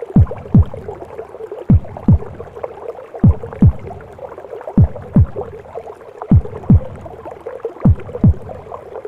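Womb-sound recording of a mother's heartbeat: six slow double thumps, lub-dub, about one every one and a half seconds, over a steady muffled whooshing.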